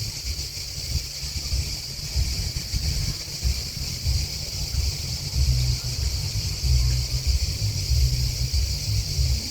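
A steady, high-pitched chorus of chirping insects, crickets and grasshoppers, that never breaks. Under it, wind buffets the microphone in a louder, uneven low rumble.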